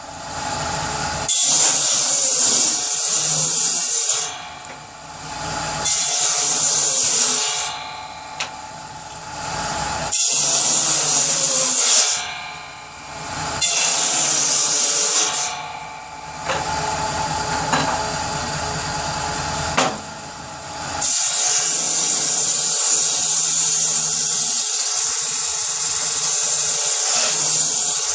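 Power saw cutting wood into kindling, cut after cut. It makes a loud hissing rasp for a few seconds at a time and drops back to a quieter running sound in between. The last cut, starting about three-quarters of the way in, is the longest.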